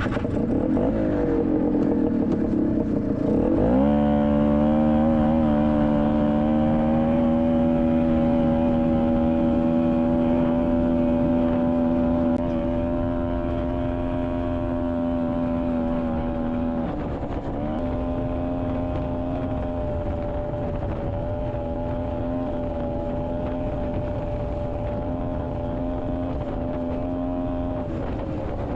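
1982 Honda Odyssey FL250's single-cylinder two-stroke engine revving up through the first few seconds, then held at steady high revs under load while driving. The engine eases off slightly about twelve seconds in and dips briefly a few seconds later, with wind rumbling on the microphone throughout.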